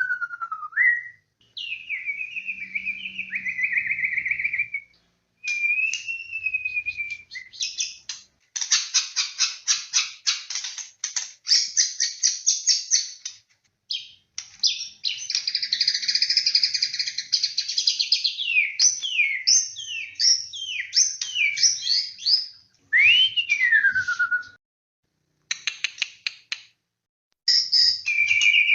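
White-rumped shama (murai batu) singing a long, varied song: clear whistles that slide down and up, a long fast rattling trill, and buzzy chattering phrases, broken by short pauses.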